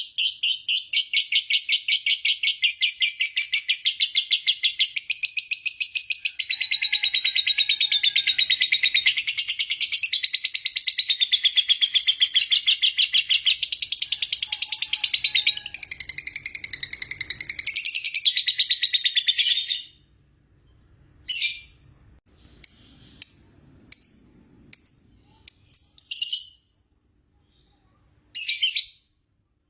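Lovebird giving a long 'ngekek' chatter: a shrill, very rapid trill of many notes a second, unbroken for about twenty seconds. It then stops abruptly and only short separate chirps follow, about one a second.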